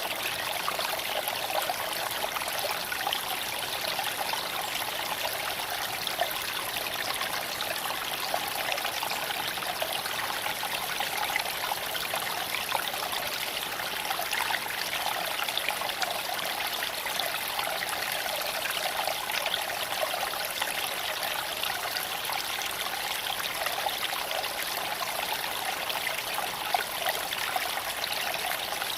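Shallow creek flowing and trickling over stones in a steady, unbroken rush.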